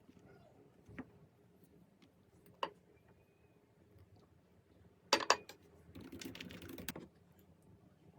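Scattered light clicks and taps of things being handled: single clicks near one and two and a half seconds, a quick cluster about five seconds in, then about a second of soft rustling or scraping.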